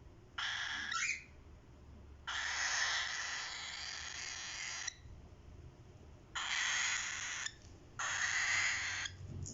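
Cockatiel chicks giving harsh, raspy hissing calls in four bursts: a short one, then a long one of about two and a half seconds, then two of about a second each.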